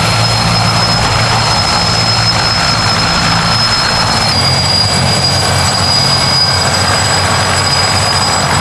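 Sikorsky S-64 Skycrane helicopter running loudly and steadily: twin turboshaft engines with a high, steady turbine whine over the drone of the rotors. The whine shifts slightly in pitch about four seconds in.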